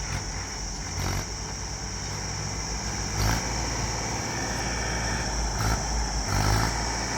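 Tractor engine running steadily, with a few short knocks about one, three and five and a half seconds in.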